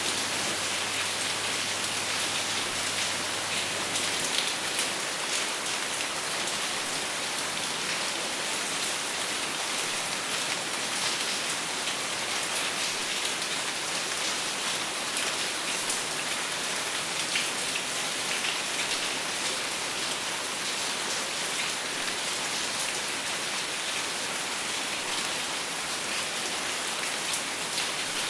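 Steady rain falling and pattering on a surface, an even hiss with fine drop sounds and no thunder.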